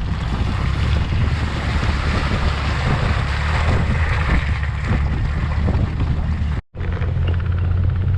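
Jeep Wrangler Rubicon driving slowly up a slippery mud-and-snow trail: a steady low engine drone under the rushing noise of the tyres working through slush and mud. The sound cuts out briefly about two-thirds of the way through.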